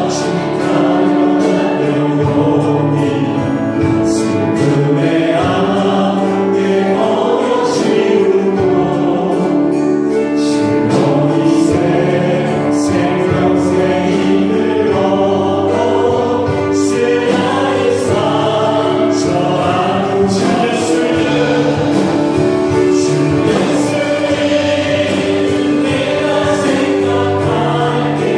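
Group of voices singing a Korean contemporary worship song in unison, over steady instrumental backing with light percussion.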